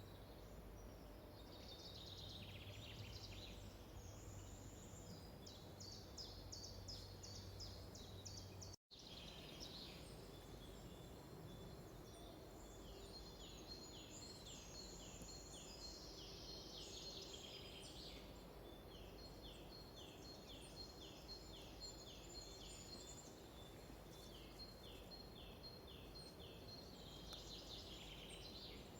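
Forest songbirds singing, faint: series of repeated high notes, each sliding down in pitch, over a steady low background rumble. The sound drops out completely for a split second about nine seconds in.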